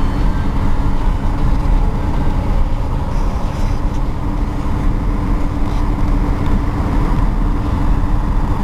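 Steady engine and road noise inside a 1955 Ford Thunderbird cruising at an even speed, a low rumble from its V8 and tyres with no change in pitch.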